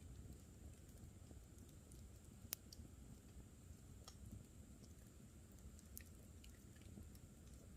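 Campfire burning quietly, wood crackling with a sharp pop about two and a half seconds in and a few softer snaps and ticks after it.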